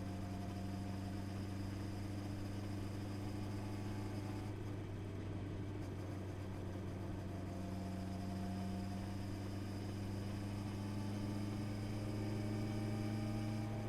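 Honda CB650R's inline-four engine running steadily while riding, its pitch rising slightly in the second half.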